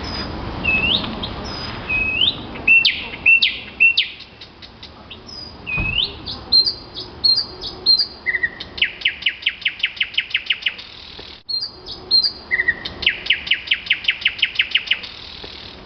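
A songbird singing: a series of separate rising, hooked whistles, then two fast trills of even repeated notes at about seven or eight a second.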